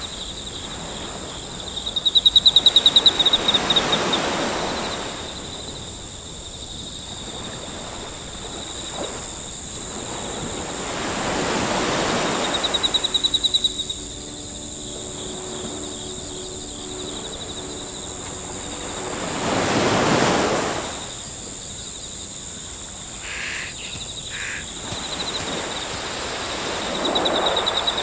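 Natural outdoor ambience: a steady high-pitched drone, a rapid pulsing trill that comes and goes three times, and slow swells of rushing noise like surf about every eight seconds.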